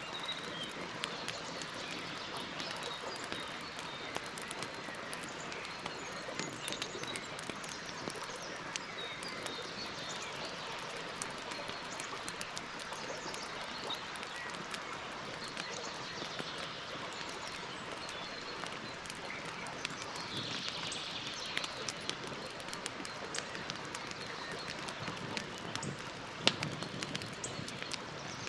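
Campfire burning, crackling steadily with many small sharp pops and one louder pop near the end. Birds chirp in the background.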